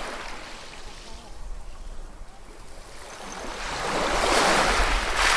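Ocean waves washing onto a shore, one wave swelling up and breaking more loudly in the second half, peaking near the end.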